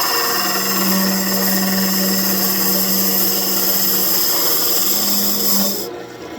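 Turning tool cutting into a birch branch spinning on a wood lathe, hollowing out a small bowl: a steady scraping hiss over a low hum, which stops about six seconds in.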